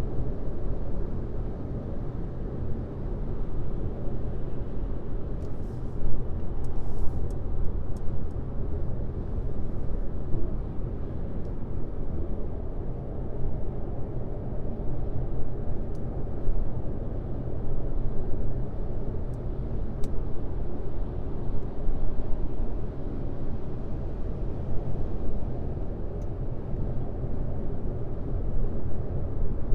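Car driving at highway speed: a steady low rumble of road and tyre noise, with a few faint ticks between about six and eight seconds in.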